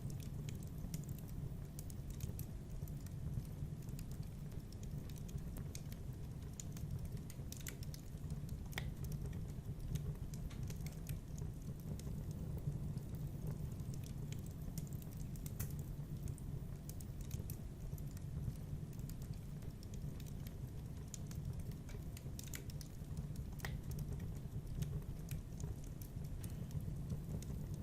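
Wood fire burning in a fireplace, crackling with sharp irregular pops over a steady low rumble.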